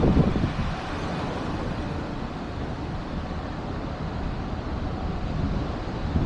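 Steady low rumble of a vehicle, with wind noise on the microphone.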